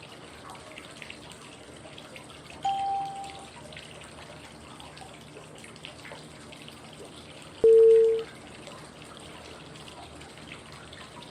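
Steady running-water white noise with two short, clear cue tones five seconds apart. A higher, softer tone comes about two and a half seconds in, and a lower, louder one near eight seconds. They are the timing tones that mark the switch between inhale, hold and exhale in 5-5-5 breathing.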